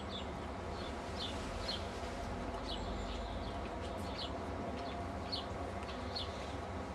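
Small birds chirping: short, high chirps at irregular intervals, about one or two a second, over a steady low outdoor rumble.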